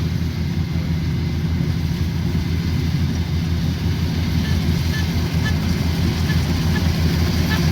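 Combine harvester's diesel engine running steadily under load, a constant low drone.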